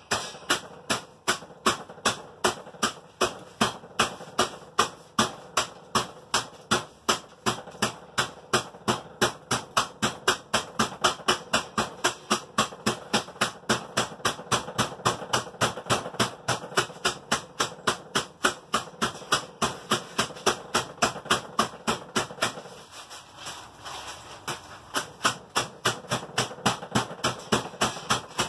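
Mallet pounding coffee beans in a Ziploc bag to crush them, steady blows about two to three a second, pausing for a second or two near the end before starting again.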